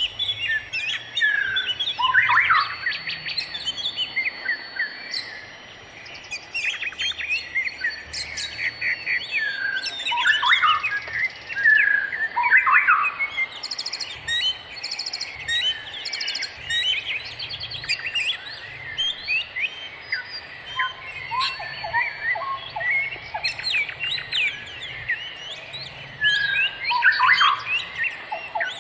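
A dense mix of songbirds singing and calling: rapid overlapping chirps, whistled notes and trills throughout, with some long held high whistles and a few quick pulsed rattles.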